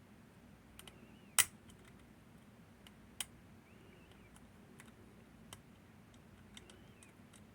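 Picking tools working the levers of a Northern Telecom NE-22 six-lever lock: scattered faint metal ticks, with a sharp click about a second and a half in and another about three seconds in.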